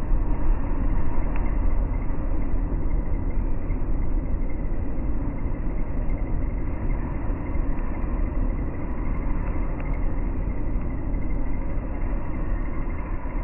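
Steady, deep rumble of a train pulling into a railway station, slowed down with the slow-motion footage so the sound is stretched and lowered in pitch. It starts suddenly and eases off a little towards the end.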